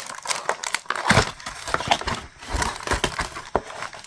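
Packaging rustling and crinkling as it is handled, with irregular clicks and taps: a craft kit being put away and the next one taken out and unwrapped.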